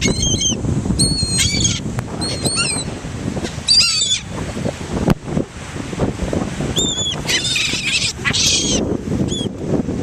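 A flock of seagulls calling over food, many short high-pitched calls overlapping in quick bursts, with a lull in the middle, over a steady low rushing background.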